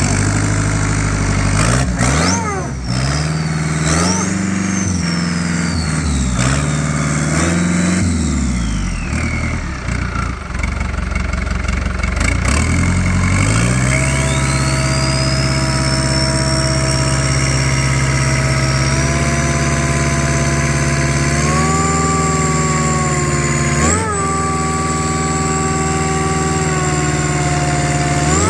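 Volvo Penta KAD32 four-cylinder marine diesel running on test. It is blipped up and down several times, then held at a steady higher speed, stepped up again and given one more quick blip near the end. A high whine rises and falls with the revs.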